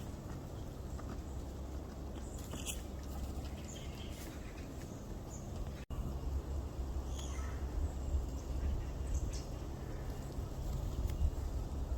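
A few faint, short, high bird chirps, spaced a couple of seconds apart, over a steady low rumble.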